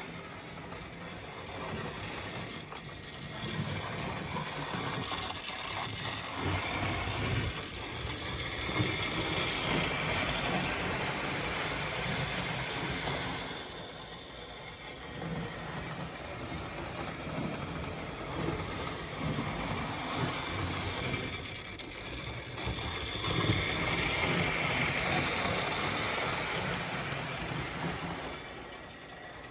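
HO-scale Santa Fe model locomotive running on its track: the small electric motor whirs and the wheels rattle on the rails. The sound grows louder and fainter in turn, roughly every ten seconds.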